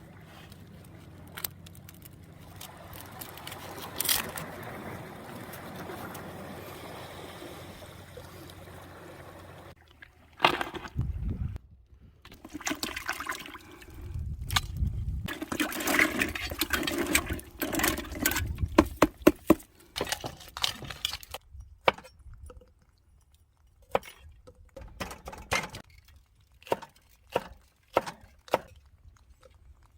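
Water running steadily for about ten seconds, then louder splashing and knocking, then a scatter of sharp clicks and clatters.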